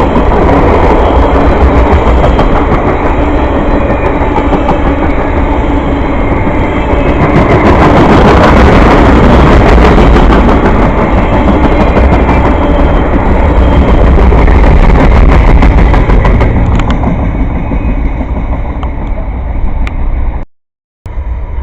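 Train passing close by: a loud, steady rumble of wheels on the rails, louder through the middle. It drops out suddenly for about half a second near the end.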